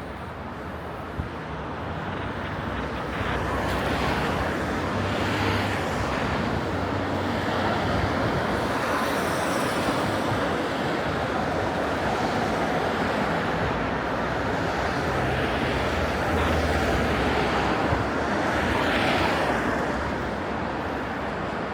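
Road traffic: several cars passing one after another, their tyre and engine noise swelling and fading.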